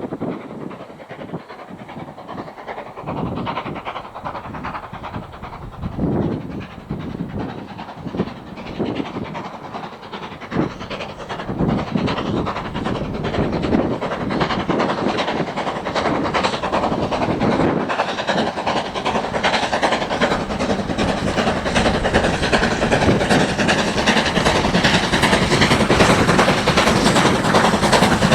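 Steam engine chuffing as it works away: slow exhaust beats a few seconds apart at first, quickening into a steady rush of steam that grows louder.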